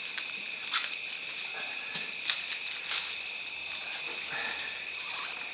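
A steady, high insect chorus at two pitches, with scattered clicks and rubbery rustles from the tyre and inner tube being handled, the sharpest clicks about a second, two seconds and three seconds in.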